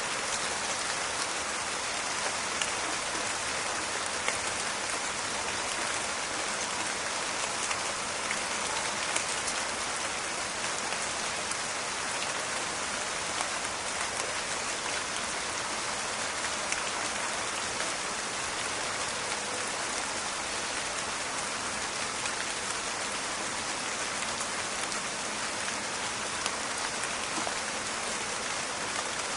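Steady rain falling in a forest, with many small drops crackling and ticking on surfaces over an even hiss.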